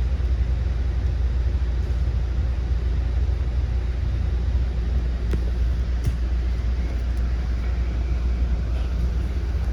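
Commuter train running between stations, heard from inside a passenger coach: a steady low rumble with a few faint clicks.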